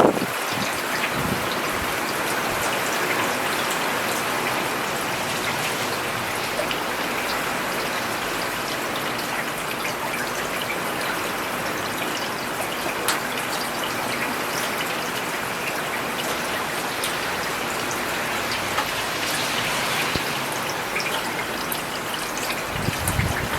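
Steady rain falling on a paved road, an even hiss with many individual drops ticking and splashing. A brief low rumble comes just before the end.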